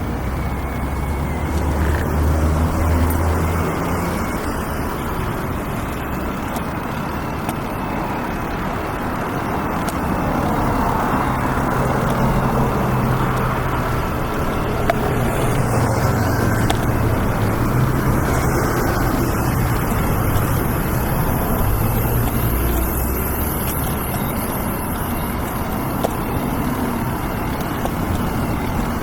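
City road traffic: a steady wash of passing cars and trucks with low engine hum, swelling with heavier vehicles a couple of seconds in and again through the middle stretch.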